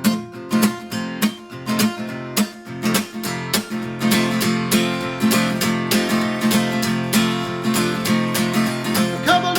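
Acoustic guitar strummed in a steady rhythm, about two to three strums a second: the instrumental intro of a song, before the vocals come in.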